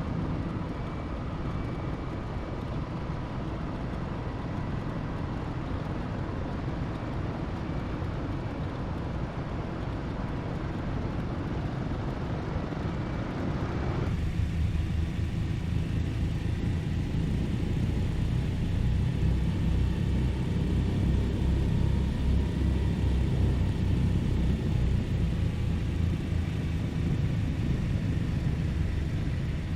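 Steady drone of a Douglas DC-3's twin radial piston engines. About halfway through, the hiss above the drone falls away and the low engine drone grows somewhat louder.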